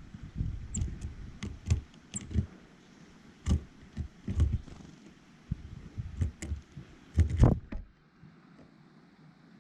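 Small birds at a feeder close to the microphone: a run of irregular taps and knocks with low thuds as they land and peck, with a few short high chirps in the first couple of seconds. It goes quiet about eight seconds in.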